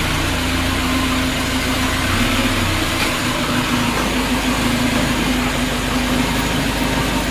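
VAZ-21099's carburettor four-cylinder engine running steadily at an even speed, freshly rebuilt with a repaired cylinder head and new piston rings.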